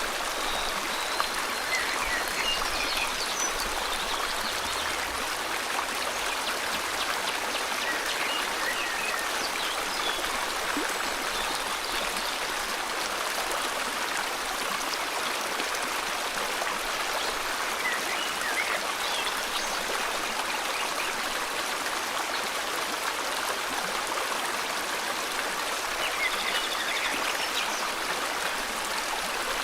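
River water flowing in a steady rush, with faint bird chirps now and then, a few near the start, around the middle and near the end.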